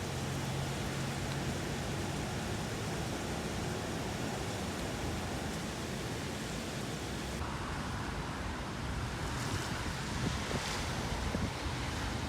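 Steady rushing noise, with no voices.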